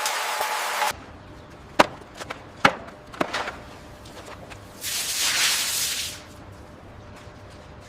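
A steady rain-like hiss that cuts off suddenly about a second in, followed by three sharp knocks of construction work, then a hissing rush lasting just over a second.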